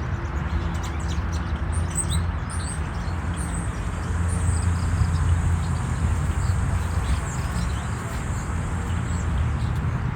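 Outdoor ambience: small birds chirping here and there over a steady low rumble.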